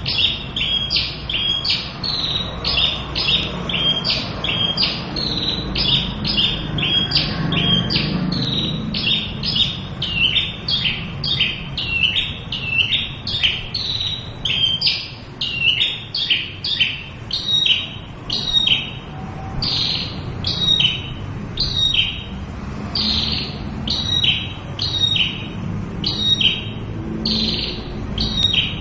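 Javan bush lark (branjangan) in full song: an unbroken run of short, quick high notes, about two a second.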